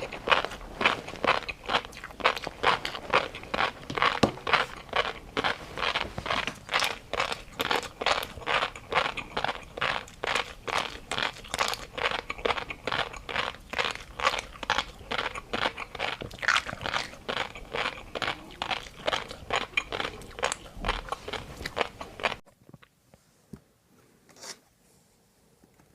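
Close-miked crunchy chewing, a quick steady run of crunches about three a second, stopping suddenly near the end and followed by a couple of faint clicks.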